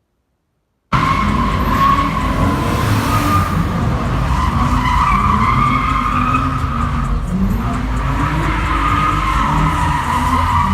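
Car tyres squealing continuously at a car meet while the engine revs up and down, as in a drift or burnout. It begins about a second in.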